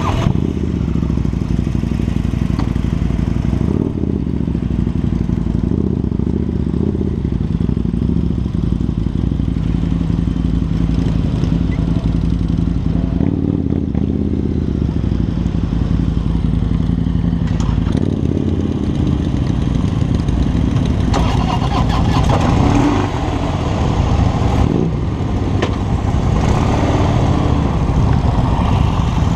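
Harley-Davidson V-twin motorcycle engine running under way, its pitch rising and falling several times with the throttle.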